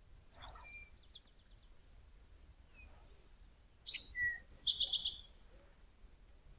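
A small songbird calling: a quick, faint trill about a second in, then louder sharp chirps and a fast trill about four seconds in. A brief soft rustle comes near the start.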